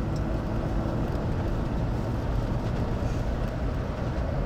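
Steady low rumble of a vehicle with wind noise, heard from inside the car; it does not rise or fall.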